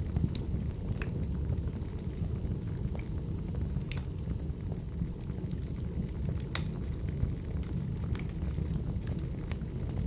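Wood fire burning: a steady low rumble of flames with sharp, scattered pops and crackles from the burning firewood.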